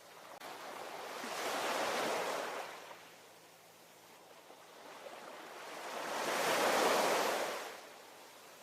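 Ocean waves: two waves wash in, one peaking about two seconds in and a louder one about seven seconds in, each swelling to a hiss and fading away.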